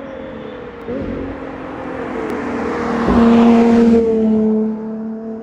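A Ferrari engine accelerating past, its note jumping sharply about a second in and again about three seconds in. It is loudest between three and four seconds in, then eases off.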